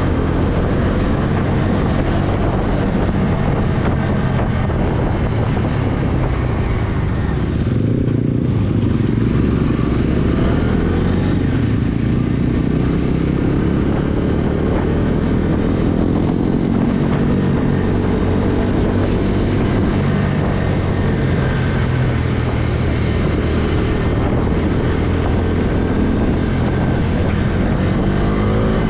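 Bajaj Dominar 250's single-cylinder engine running under way, its revs rising and falling gently with the throttle, under steady wind and road noise. The noise thins briefly about eight seconds in.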